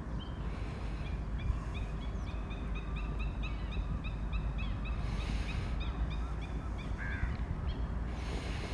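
A bird calling a long series of short, high chirps, several a second, over a steady low rumble.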